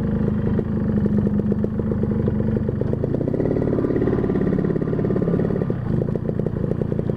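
Carburetted motorcycle engine running under way with its air filter box refitted, so the intake is without the box filter's snoring sound. The engine note is steady, its pitch shifting a little about midway as the speed changes.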